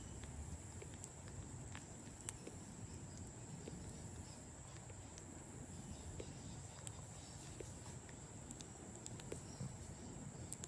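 Faint, irregular wet clicks and smacks from a bat chewing a banana slice, over a steady high-pitched whine.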